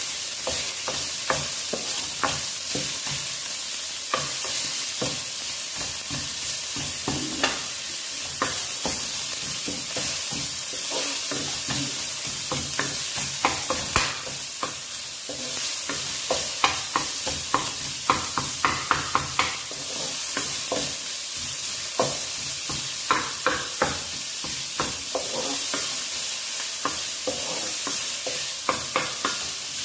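Minced pork sizzling in oil in a non-stick frying pan, with a steady hiss of frying. A wooden spatula stirs and scrapes it, giving frequent short clicks and knocks against the pan, thickest in the middle and near the end.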